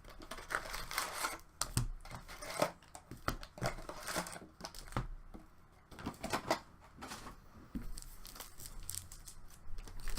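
Plastic wrapping crinkling and tearing as a sealed box of hockey cards is opened, in irregular crackles and short rips.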